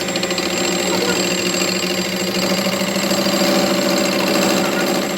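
A workshop machine running steadily with a fast, buzzing rattle and a steady whine.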